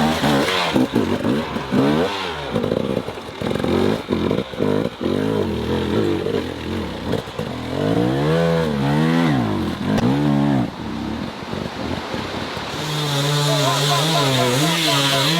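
Dirt bike engines racing, revving up and down with the throttle and gear changes. The pitch sweeps up and falls repeatedly, then holds steadier near the end.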